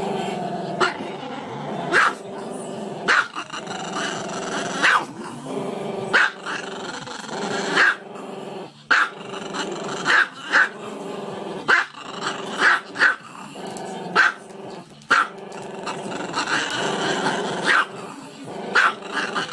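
Small black-and-tan dog, head raised, making a drawn-out growling vocal sound without a break. About once a second it is cut by a sharp single bark, around fifteen barks in all.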